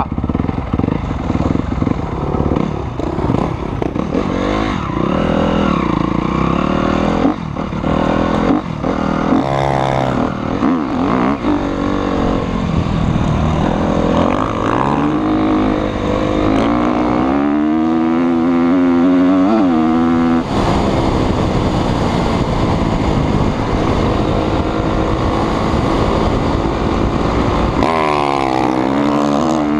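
Motocross dirt bike engine revving under hard throttle, its pitch climbing and falling repeatedly. One long climb near the middle is cut off sharply, and it climbs again near the end.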